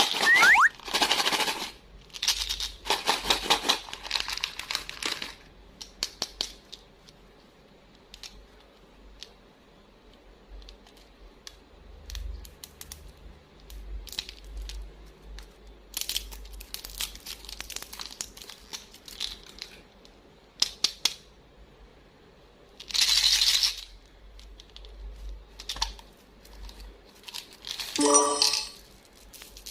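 Candy packaging being torn open and crinkled in several rustling stretches, with scattered sharp clicks of small hard candies dropping and knocking together in between.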